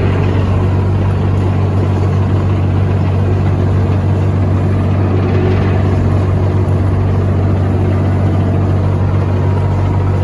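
An engine running steadily at constant speed, with a strong low hum that does not change.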